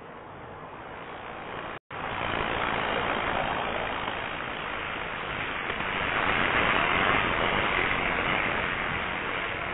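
Rushing wind and road noise on a cyclist's head-mounted camera microphone while riding, swelling toward the middle and easing near the end. The audio cuts out completely for a moment about two seconds in, a live-stream dropout.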